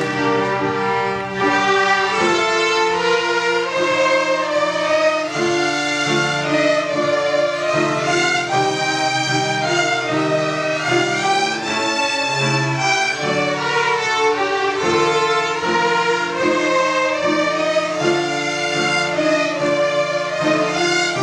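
Bowed string instruments playing, a violin melody over a lower held part.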